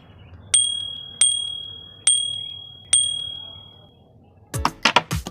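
A small bell struck four times, each ring clear and high and dying away over about a second. Near the end comes a quick run of sharp knocks.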